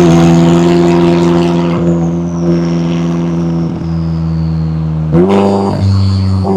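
McLaren 570S twin-turbo V8 exhaust holding steady revs for about five seconds. Then the revs jump sharply, dip and climb again near the end, with a faint high whine slowly falling above the engine note.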